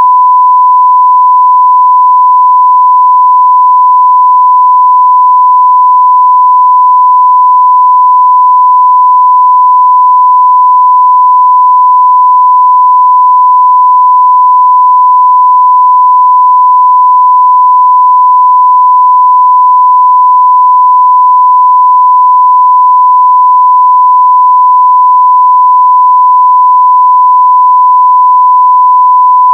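1 kHz sine-wave test tone at full level (0 dB), held steady and unbroken.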